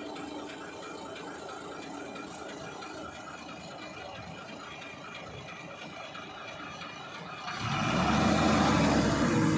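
Diesel engine idling steadily, then running much louder and heavier from about seven and a half seconds in.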